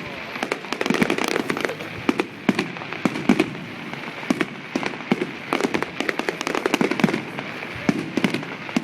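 Many fireworks going off at once: a continuous, irregular barrage of sharp bangs and crackles, several a second, some louder than the rest.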